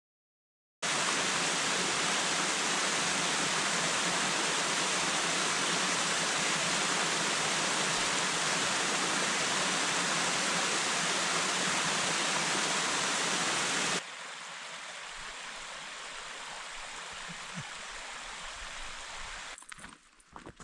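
Rushing water of a cascading waterfall, a loud, steady hiss. It drops suddenly to a quieter water sound about 14 seconds in, and a few short knocks or steps come near the end.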